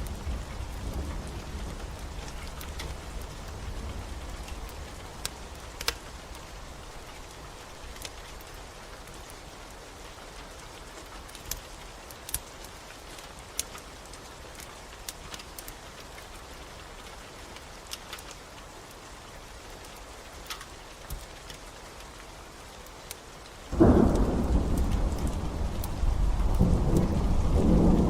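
Steady rain with scattered sharp crackles of a wood fire, then, about 24 seconds in, a sudden loud low rumble of thunder that swells again a couple of seconds later.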